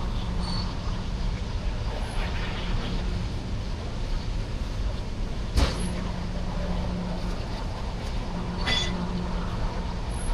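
Freight train of CSX diesel locomotives and cars rolling by: a steady low rumble with a low hum, a sharp clank about five and a half seconds in and another, with a short high squeal, near the end.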